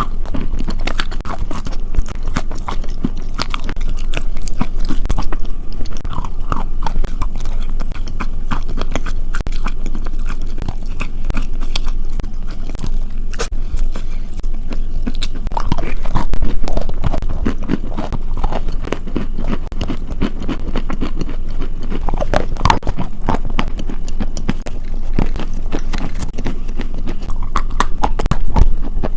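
Close-miked chewing and biting of crunchy food, a dense run of crackling crunches.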